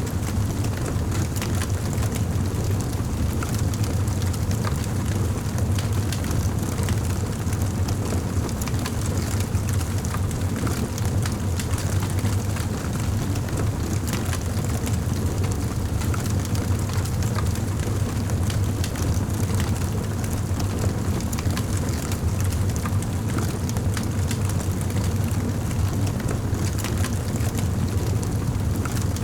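Fireplace wood fire crackling, with many small sharp pops over a steady low rumble.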